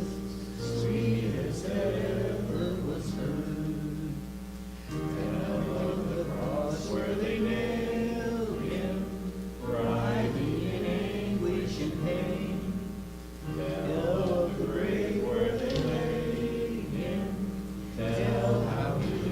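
A group of voices singing a hymn together, in phrases about four seconds long.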